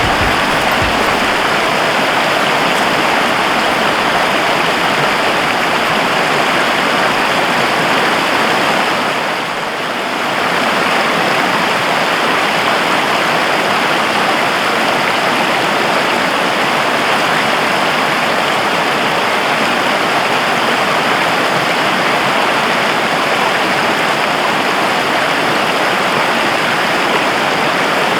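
Steady rushing of running water, easing slightly for a moment about ten seconds in.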